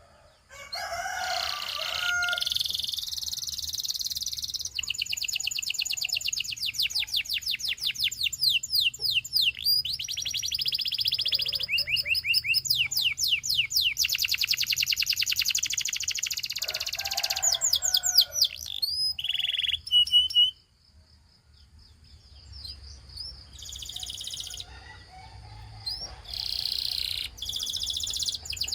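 Gloster canary singing: long runs of fast trills and rolls made of rapidly repeated high notes. The song breaks off abruptly about two-thirds of the way through, then resumes in shorter bursts near the end.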